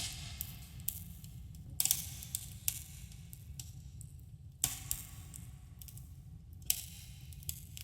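Wood campfire crackling, with sharp pops every second or so over a steady low rumble, and a slight echo trailing each pop.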